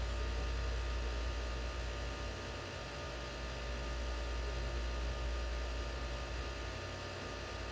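Steady low electrical hum with a constant background hiss; no distinct tool or work sounds.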